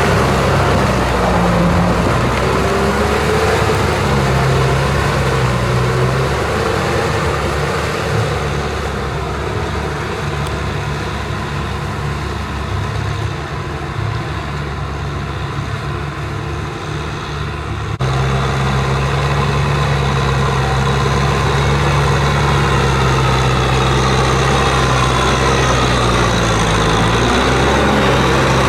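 Kubota M6040SU tractor's diesel engine running steadily while working a field. It goes quieter for about ten seconds in the middle, then comes back louder with a sudden change.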